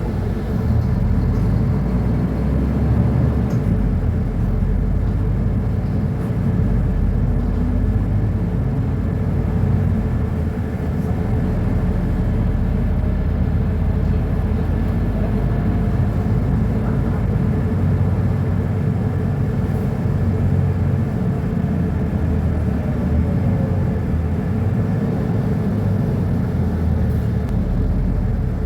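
Mercedes-Benz O-500UA BlueTec 5 articulated bus's diesel engine running steadily, a continuous low rumble with a faint steady tone above it.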